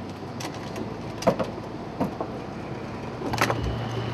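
Several sharp knocks and clicks, the loudest about a second in, over a steady low hum. A second, stronger steady hum with a faint high tone comes in near the end.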